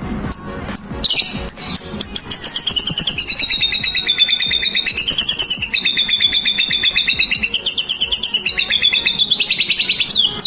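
White-rumped shama (murai batu) singing: a few clear whistled notes, then a long, fast, rapid-fire trill that rises and falls in pitch for several seconds, ending in quick downward-sweeping whistles.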